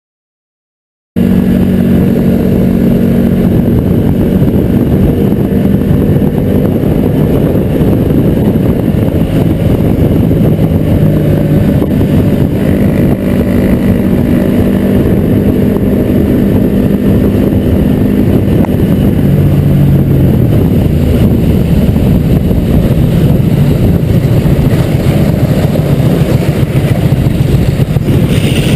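Motor vehicle driving: loud, steady engine and road rumble that starts abruptly about a second in after dead silence.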